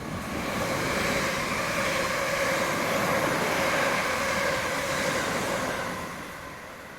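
A train passing through the station: its rumble and rail noise swell up in the first second, hold loud, then fade away near the end.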